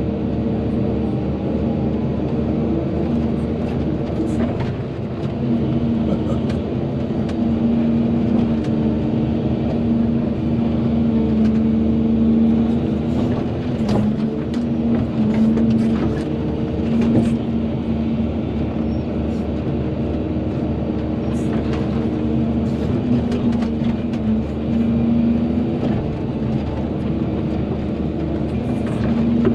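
Volvo EC220DL tracked excavator's diesel engine running steadily under working load, its pitch easing and rising a little as the hydraulics work, with scattered clanks and knocks from the digging gear.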